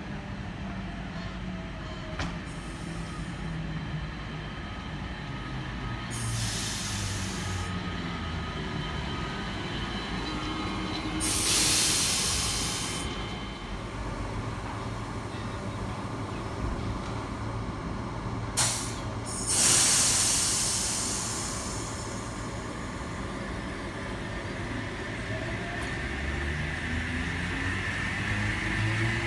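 A Sydney Trains OSCAR (H set) double-deck electric train arriving, its motors humming with a rising and falling low tone, broken by loud hisses of air from the brakes about six seconds in, again near twelve seconds, and twice more around nineteen to twenty-one seconds.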